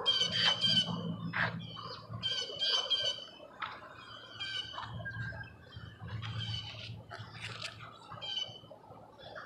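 Birds calling repeatedly: many short, high calls a second or less apart, busiest in the first few seconds, over an intermittent low rumble.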